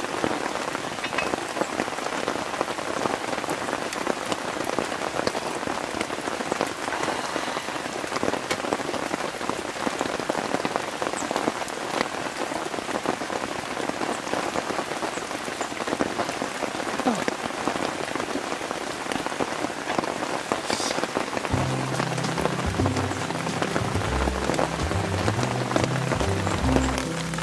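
Steady rain falling on a camping tarp overhead, an even hiss of many drops. Background music with low notes comes in about six seconds before the end.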